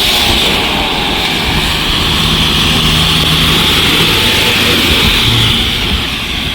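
Fire apparatus engine running loud and steady close by, with a constant hiss over it, easing off slightly near the end.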